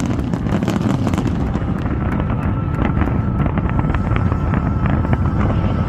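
Fireworks finale: shells bursting and crackling in rapid, continuous succession over a steady low rumble.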